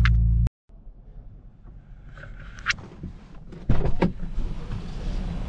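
Car engine running, heard from inside the cabin as a loud steady low hum that cuts off abruptly about half a second in. Then a quieter low background hum with a few sharp knocks and clunks, the loudest cluster about four seconds in.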